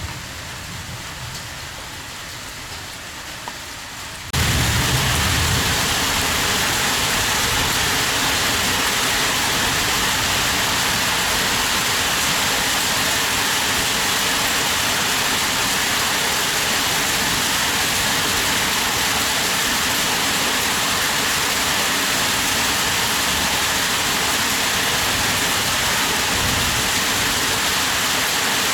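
Heavy rain falling steadily. About four seconds in it becomes suddenly much louder and stays steady at that level.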